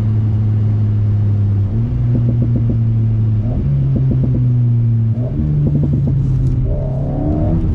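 Alpine A110's turbocharged four-cylinder engine heard through a stainless BDA Racing Track Evo exhaust, running hard with its note held steady and then stepping up in pitch three times as the car slides through a wet track. A wavering higher tone joins near the end.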